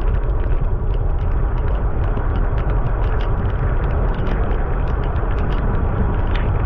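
Steady low rumble of wind and rolling noise on a camera carried on a bicycle riding through rain, with scattered sharp ticks several times a second.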